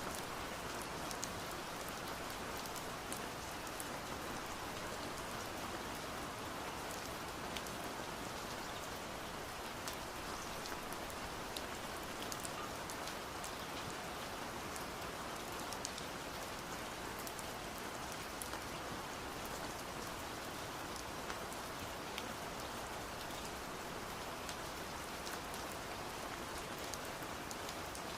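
Steady rain: a dense, even hiss with scattered sharp drops tapping on window glass.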